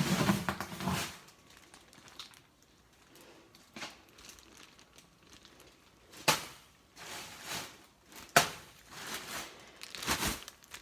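Plastic-wrapped frozen food packages crinkling as they are handled and moved, with a few sharp knocks as hard frozen items are set down.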